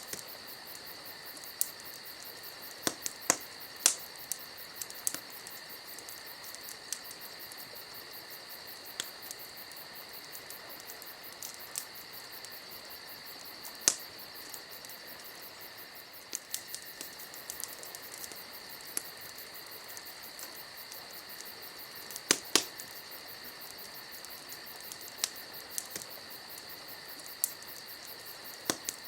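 Wood fire crackling, with irregular sharp pops and snaps, a few of them much louder, over a steady high-pitched tone.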